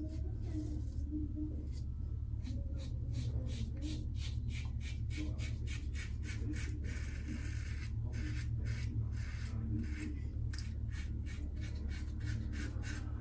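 Stainless steel Karve double-edge safety razor with a Voskhod blade scraping through lathered stubble in many short, quick strokes, about two to three a second, over a steady low hum.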